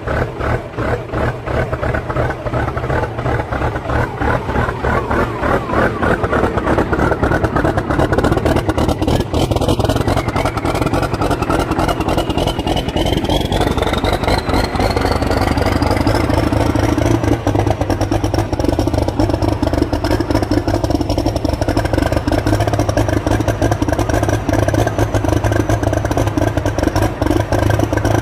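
Cummins 5.9 straight-six diesel running cold just after a cold start, with a fast, steady diesel clatter. About ten seconds in, a thin whine climbs steadily in pitch, then holds high as the engine note fills out.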